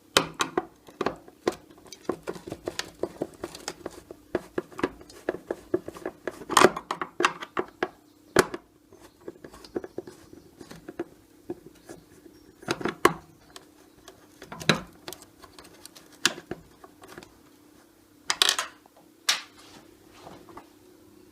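Small metal clicks and clinks of hand tools as a cross-head screw is undone from a washing machine's steel cross member. The clicks come several a second at first, then more sparsely, with a few louder knocks.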